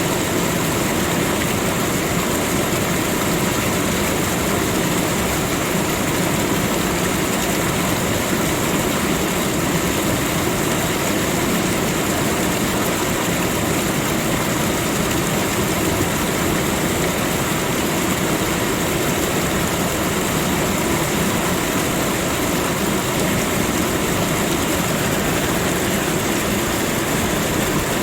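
Waterfall, falling water rushing steadily and evenly with no change.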